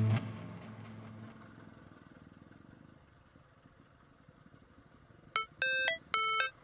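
A guitar music track fades out, leaving a faint low rumble. Near the end a quick series of short electronic beeps starts, alarm-clock-like, about four in the last second and a half.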